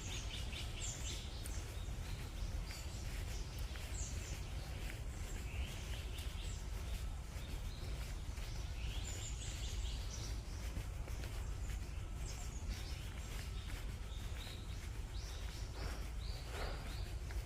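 Small wild birds calling and chirping in the forest canopy: short high phrases repeated every second or two, over a steady low rumble.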